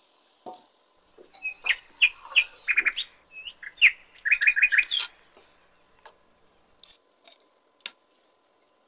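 Small birds chirping in quick bursts of short high notes, including one fast run of five or six notes, then dying down to a few faint ticks in the second half.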